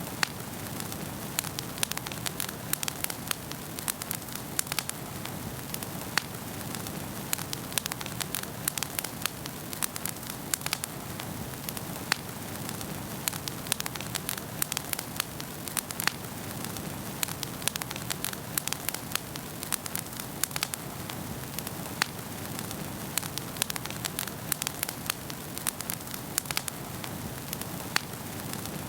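Wood fire burning in a fireplace: a steady hiss with many sharp, irregular crackles and pops, several a second.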